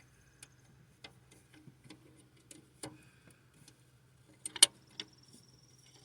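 Hand tools clicking and tapping against metal while working around the exhaust manifold studs of a big-block engine. The sharp clicks come at uneven intervals, with a louder clatter about four and a half seconds in.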